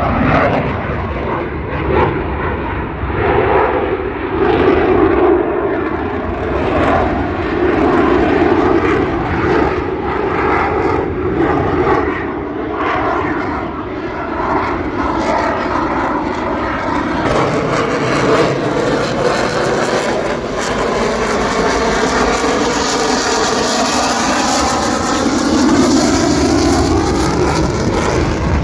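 Airplane engine noise as an aircraft flies past, running steadily, with a sweeping shift in tone through the second half.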